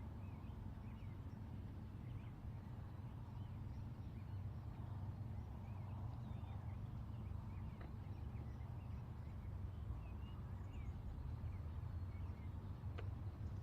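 Outdoor ambience: many short bird chirps and calls scattered throughout, over a steady low rumble.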